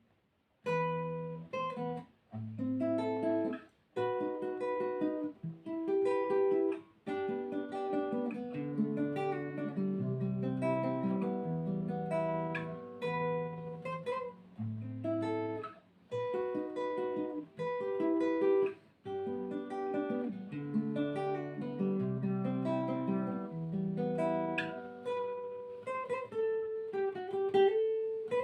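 Solo acoustic plucked string instrument played as a free improvisation: phrases of plucked single notes and chords, broken by brief pauses, beginning about half a second in.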